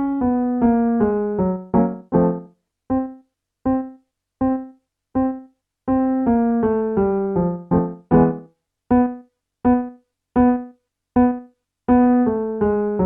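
Piano playing a vocal warmup pattern for the staccato-and-descend exercise. Short detached notes repeat on one pitch, alternating with quick descending runs of a few notes that end in a chord; the pattern comes round about every six seconds.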